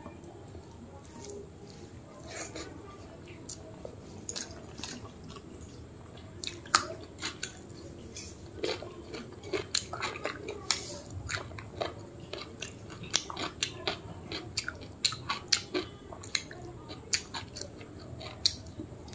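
Close-miked chewing of rice with mutton curry and mutton fat, eaten by hand, with many wet mouth clicks and smacks that come thicker from about a third of the way in.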